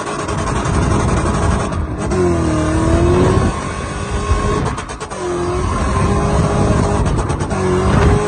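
4.0-litre V8 engine in a BMW E30 revving hard under load, its pitch rising and falling as the throttle is worked, with a brief drop in revs about five seconds in.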